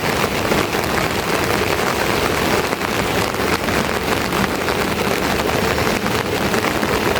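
Steady heavy rain falling, an even, dense pattering hiss.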